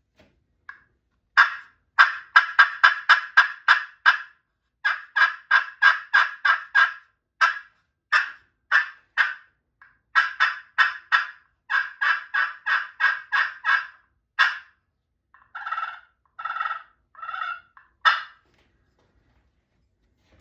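Slate-over-glass turkey pot call (black slate in a black walnut pot) played with a striker, imitating a hen turkey: runs of short, sharp yelps at about five a second, separated by a few slower single notes. Near the end come a few lower, longer notes, then one last sharp note.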